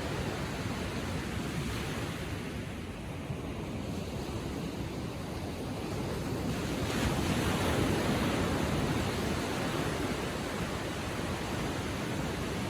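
Gentle Atlantic surf lapping on the shore: a steady wash of waves that dips a little, then swells as a wave breaks and runs up about seven seconds in.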